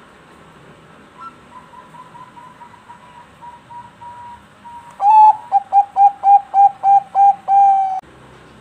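Zebra dove (perkutut bangkok) singing: a soft run of quick, faint notes, then from about halfway a loud series of about ten short coos, each dipping at its end, closing on one longer held note.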